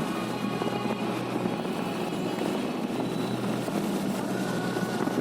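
Motorcycle running at riding speed, with steady engine, road and wind noise.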